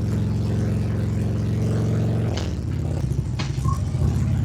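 Harley-Davidson Ultra Limited's V-twin engine running under way at steady revs; a bit over two seconds in, the engine note drops lower, as when easing off the throttle, with a couple of short clicks.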